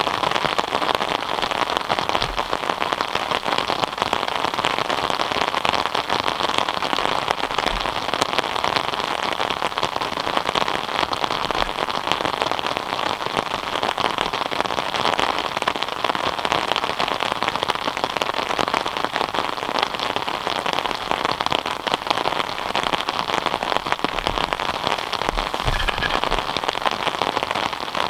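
Steady rain: a dense, even patter of raindrops hitting a surface.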